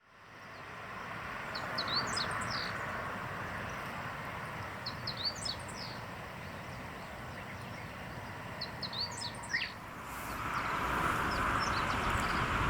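A songbird sings the same short, high phrase three times, a few seconds apart, over steady outdoor wind noise. The background noise grows louder about ten seconds in.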